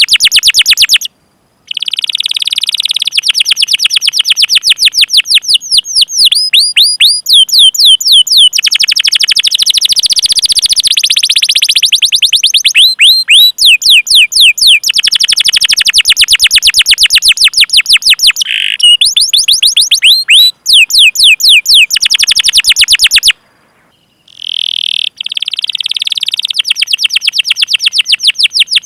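Domestic canary singing a long rolling song: fast runs of repeated down-slurred 'cuit cuit' chirps, high-pitched and loud. It breaks off briefly twice, about a second in and again a few seconds before the end.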